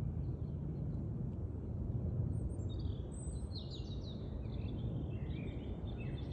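A songbird singing a quick run of short, high chirping notes, starting about two seconds in, over a steady low outdoor rumble.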